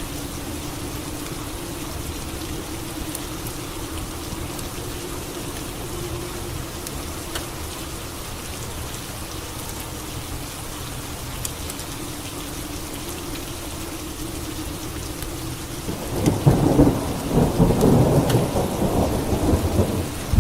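Steady rain falling, with a long low rumble of thunder rolling in about three-quarters of the way through and growing loud.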